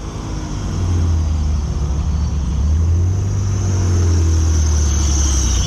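Straight-piped Chevrolet Camaro SS 6.2-litre V8 with headers, running at low revs with a deep, steady exhaust drone that swells about a second in and then holds.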